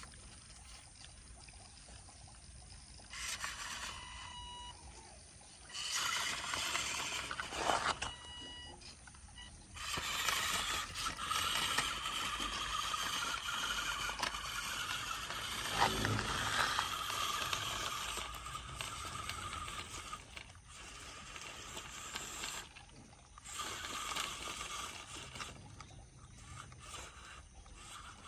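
Remote-control toy tractor's small electric motors and gears whirring in repeated bursts of a few seconds each, the longest running about ten seconds through the middle.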